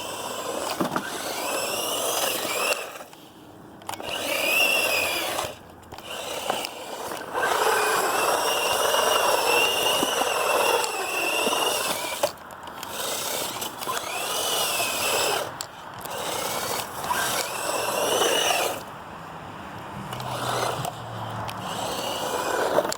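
Hosim S911 RC truck's electric motor and drivetrain whining through repeated throttle bursts, the pitch rising and falling as it speeds up and slows, over a rough rushing noise. There are about half a dozen bursts of a few seconds each, the longest about five seconds near the middle.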